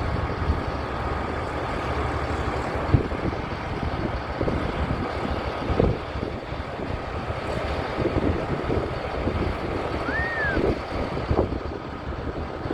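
Steady motor-vehicle rumble with wind buffeting the microphone, and a short rising-then-falling whistle about ten seconds in.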